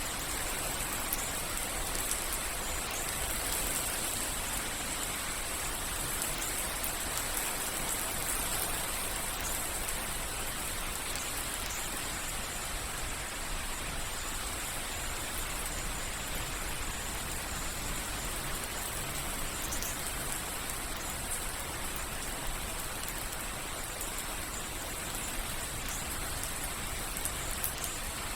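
Steady soft rain falling, with faint scattered drips and patters on a surface.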